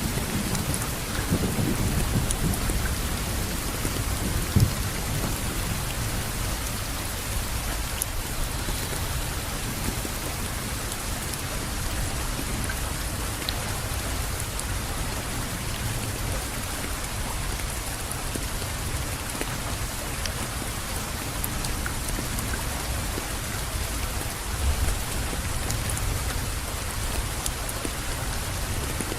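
Steady rainfall pattering on surfaces, with a low rumble of thunder underneath.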